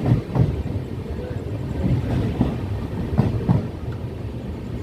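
Express train rolling on the rails with a steady low rumble, its wheels knocking over rail joints in two quick pairs, about a second in and again about three seconds in.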